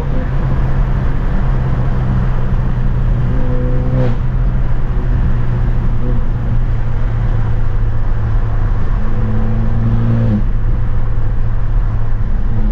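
Straight-piped, tuned BMW F30 328i's turbocharged four-cylinder running loud and steady, heard from inside the cabin, with a short sharp break about four seconds in and a change in its note about ten seconds in.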